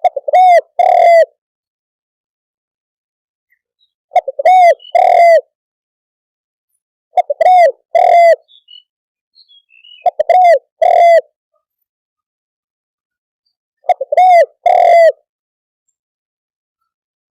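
Spotted dove cooing: a call repeated five times, every three to four seconds, each a quick short note or two followed by two strong coos.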